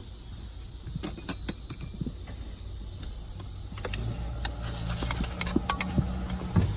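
Scattered clicks and light rattles of interior trim pieces being handled and fitted, with a few sharper ticks. A low steady hum comes in about four seconds in.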